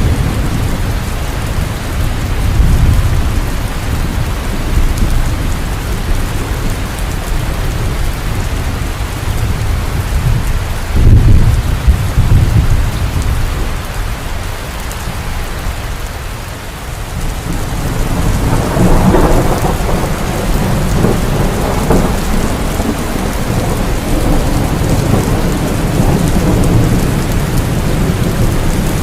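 Heavy rain falling steadily with thunder rumbling. A loud low rumble comes about eleven seconds in, and a longer rolling rumble builds around eighteen seconds.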